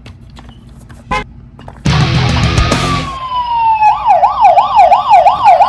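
Toy police car's electronic siren sound effect through a small speaker: after a loud noisy burst about two seconds in, a tone slides down and breaks into a fast wail that rises and falls about two to three times a second.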